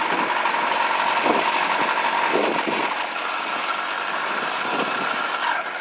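Small gas engine of a motorized bicycle running steadily under way, a high buzzing drone mixed with wind and road noise.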